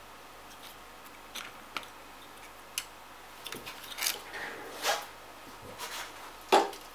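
Small clicks and handling noises on a graphics-card fan, with a few short hissing spray bursts about four, five and six and a half seconds in, the last the loudest: lubricant being sprayed into the fan.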